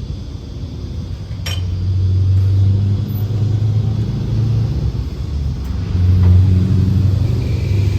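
Truck engine running with a low, steady rumble that swells twice, as if the revs rise and ease; a single sharp click about a second and a half in.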